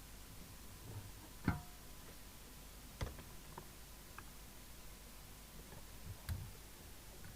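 A few quiet clicks and knocks, three of them louder than the rest, over a faint steady high tone and low room hiss.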